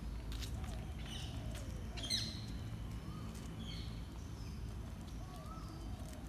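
Birds chirping and calling in short notes, one sharper call about two seconds in, over a steady low rumble.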